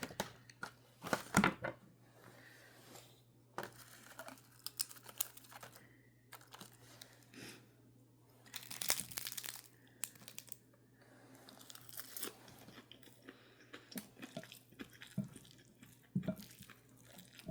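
Packaging crinkling and tearing as it is handled, in scattered short bursts of rustles and clicks, over a faint steady low hum.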